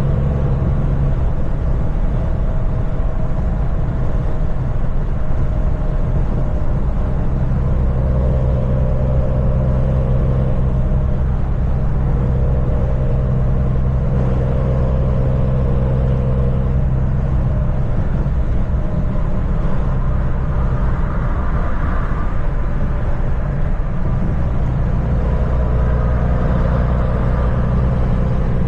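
Kenworth semi-truck's diesel engine running steadily at cruising speed, with road and tyre noise underneath; the engine note shifts slightly a few times.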